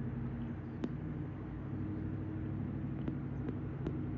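A steady low engine hum, with a few faint clicks about one, three and four seconds in.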